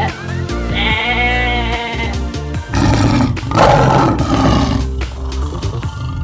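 A bleat with a wavering pitch, then from about three seconds in a loud, rough animal roar, over background music.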